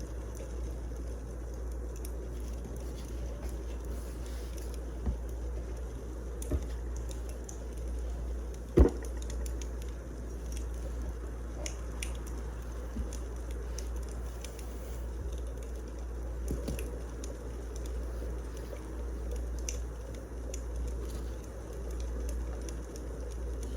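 Wood fire crackling, with scattered small snaps and one sharp, loud pop about nine seconds in, over a steady low rumble.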